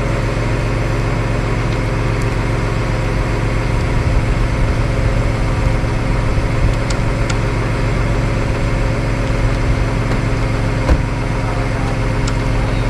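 Tow truck engine running steadily during a slow, steady winch pull of a car. A single sharp knock near the end.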